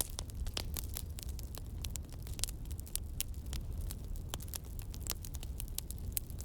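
Campfire crackling: many sharp pops and snaps in quick, irregular succession over a low, steady rumble.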